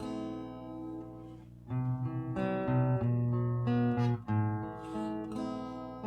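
Acoustic guitar played, strumming and picking chords: an instrumental introduction. The strums are lighter for about the first two seconds, then fuller and louder.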